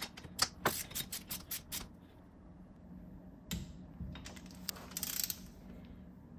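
Ratcheting torque wrench clicking as it tightens the rear hub-to-trailing-arm bolts: a quick run of clicks through the first two seconds, a single click about halfway, then another cluster of clicks.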